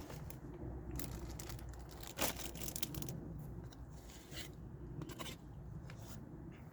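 Scattered crinkling, tearing and crunching from an old cherry Pop-Tart and its wrapper being handled, with one sharper crack about two seconds in.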